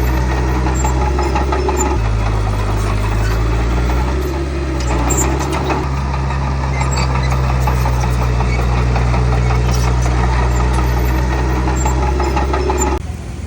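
Heavy diesel engine of earthmoving machinery running steadily with a deep, even hum and light clatter over it. Its pitch shifts slightly about two seconds in and again around five seconds. The sound drops off suddenly near the end.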